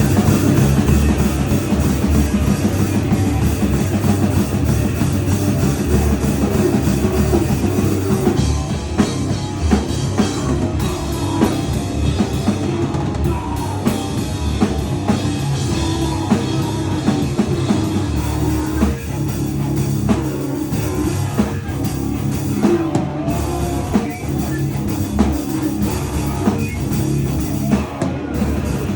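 A live powerviolence band playing loudly, with a full drum kit and guitar.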